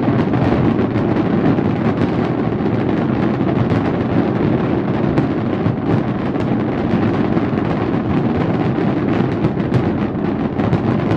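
Fireworks display: a dense, unbroken barrage of booms and crackling bangs, one on top of the next, with a deep rumble underneath.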